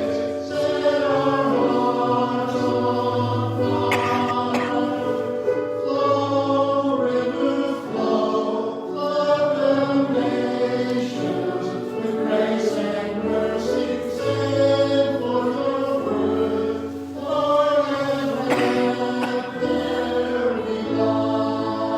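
Choir singing sustained notes, a sacred choral piece in a church service.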